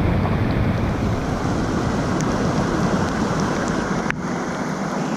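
Ocean surf crashing and washing in as a steady rushing, with wind buffeting the microphone.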